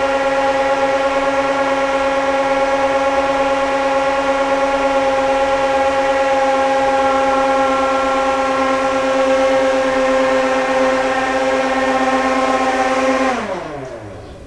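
Kitchen blender motor running at a steady high-pitched whine, then switched off about a second before the end, its pitch falling as it winds down.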